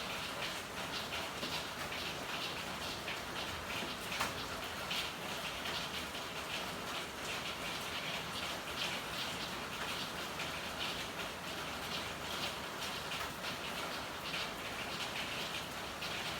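Steady rain falling, with a dense, irregular patter of drops and one sharper tap about four seconds in.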